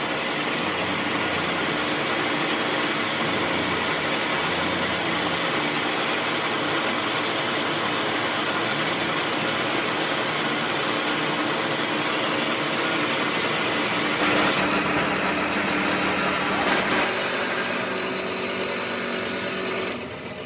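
A motor-driven workshop machine running steadily, a loud even whirr with a steady hum under it. It changes briefly about 14 and 17 seconds in, then drops away at the very end.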